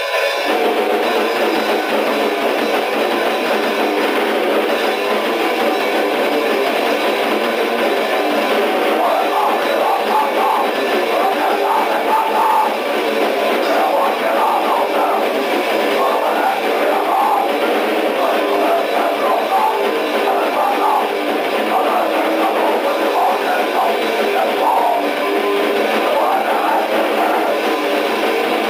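D-beat raw punk demo: distorted electric guitar and drum kit playing continuously, a thin lo-fi recording with almost no bass.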